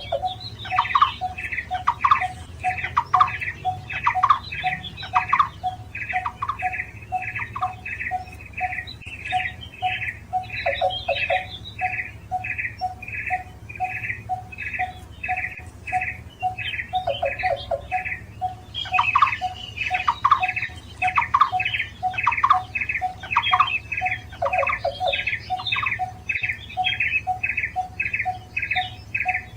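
Barbets calling: an even, rapid series of repeated notes, about three a second, with a second, lower series of short pips running under it.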